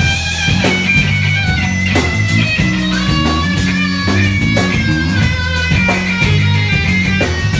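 Funk-rock band playing live in an instrumental section: an electric guitar holds and bends sustained high notes over a steady bass guitar line, a Fender Jazz Bass through an Ampeg SVT amp, and a rhythmic drum kit.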